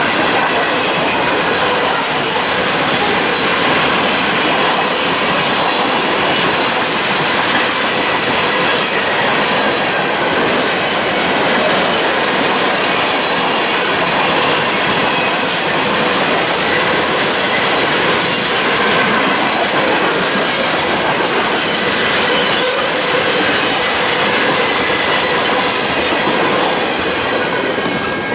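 Railroad cars rolling past: steady noise of steel wheels on rail with clickety-clack over the rail joints and a thin, steady wheel squeal.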